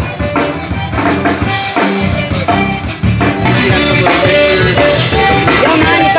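Live zydeco band music with a steady drum beat. About halfway through it gets louder and brighter.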